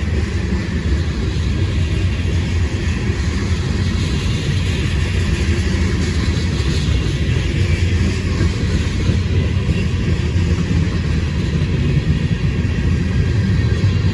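Train rolling past, a steady loud rumble that holds without a break.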